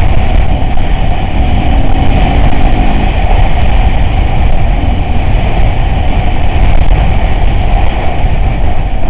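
Off-road vehicle driving, its engine running under a heavy, steady low rumble, with a faint wavering engine note in the first few seconds.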